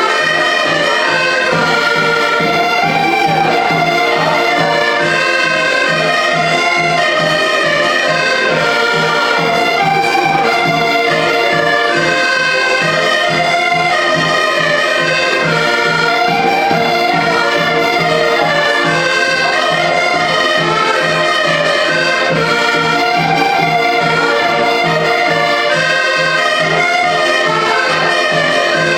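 Live traditional Portuguese band music from a street parade: several instruments playing a melody over a steady beat.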